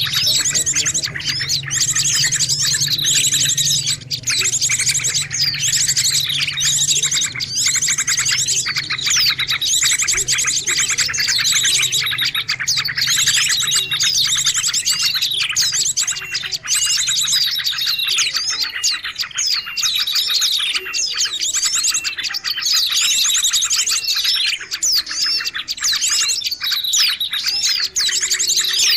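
A dense, busy chorus of many small songbirds chirping and trilling at once, calls overlapping in phrases that recur every couple of seconds: a mixed small-bird lure recording of the noisy kind used to attract birds. A low steady hum sits under it for the first part and then fades.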